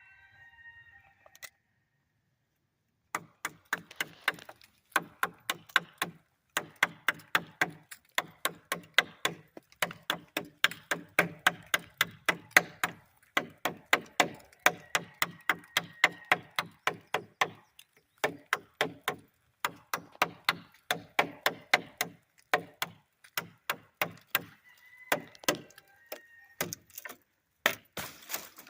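A blade chopping oak branches: rapid repeated sharp blows into the wood, about two to three a second, in runs with brief pauses.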